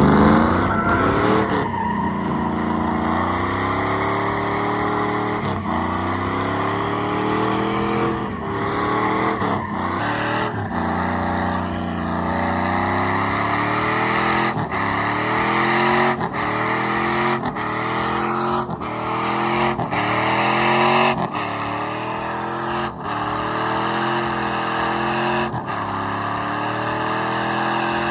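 Truck engine revved hard during a tire burnout, its pitch climbing and dropping over and over, every few seconds at first and then about once a second, over a steady hiss of spinning tires.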